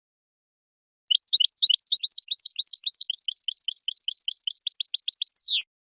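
European goldfinch singing: a fast run of repeated high twittering notes, about six a second, that starts about a second in and ends with a falling slurred note.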